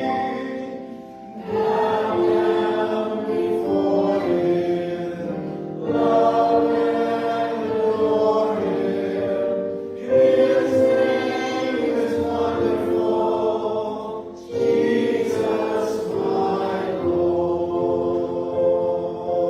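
Voices singing a hymn together in slow, held phrases, with a short break for breath about every four seconds.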